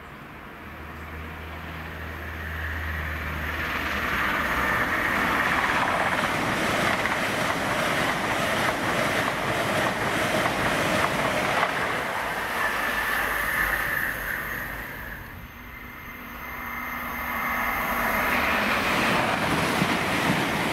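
Train passing through the station on the main line: a rush of wheels on rail with rapid clicking that builds over the first few seconds and holds. It dips about fifteen seconds in, then builds again near the end as more train noise approaches.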